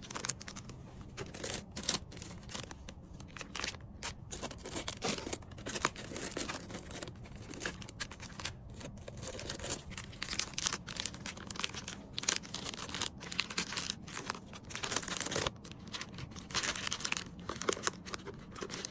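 Packaging crinkling and rustling in irregular bursts as small items are handled and packed.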